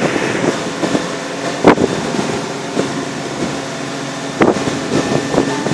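Steady drone of a shrimp boat's engine running under wind buffeting the microphone, with two sharp thumps, one before and one after the middle.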